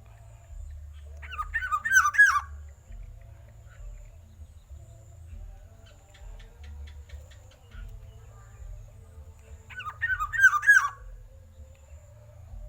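Black-naped oriole singing: two short phrases of loud, looping fluty whistles, about a second in and again near ten seconds.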